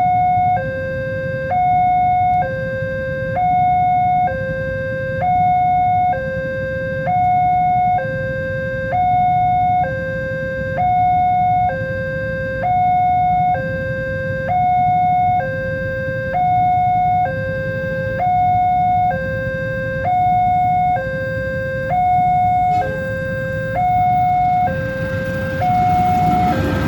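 Railway level-crossing warning alarm sounding a repeating two-tone hi-lo signal, the tones taking turns about once a second, warning of an approaching train. Near the end a broad rushing noise grows louder under it.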